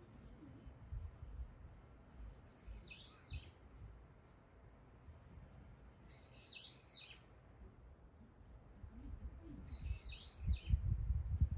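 A wild bird calls three times, each call a short rising-then-falling note about a second long, spaced about three and a half seconds apart. A low rumbling underneath grows louder near the end.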